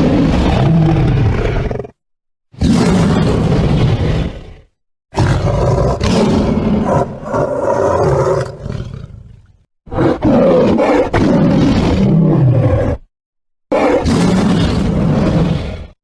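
Bengal tiger roaring in five separate passages, each cut off abruptly into silence before the next begins.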